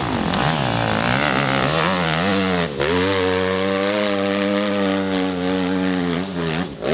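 Dirt bike engine revving hard, its pitch rising and falling with the throttle. It dips sharply a little under three seconds in, is held at high revs, and drops off near the end.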